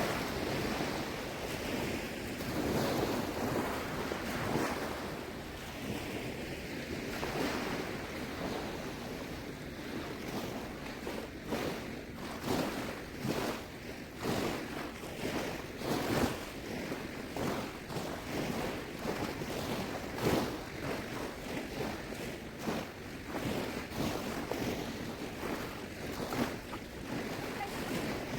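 Seawater sloshing and splashing around a person wading and pushing a shrimp push net through the shallows, with repeated splashes roughly once a second, over wind on the microphone.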